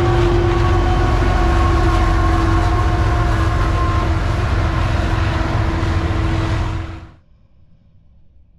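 CSX diesel locomotive passing close at the head of a double-stack container train: loud engine rumble and rolling wheel noise, with steady held tones sounding over it. The sound cuts off suddenly about seven seconds in.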